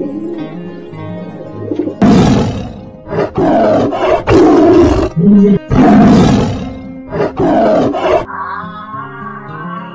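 A big cat, lion or tiger, roaring: a string of five or six loud, rough roars and growls from about two seconds in until about eight seconds, over quieter background music.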